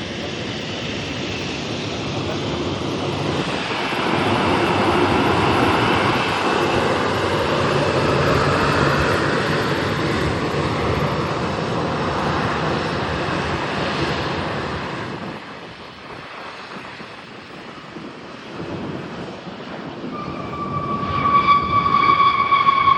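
Jet airliner passing at the airport: engine noise builds over a few seconds, stays loud, then falls away about fifteen seconds in. Near the end a high whine with a slowly falling pitch starts up.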